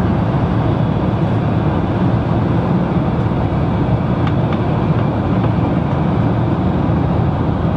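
Steady, even rumble of an airliner cabin in flight, strongest in the low range, with no changes.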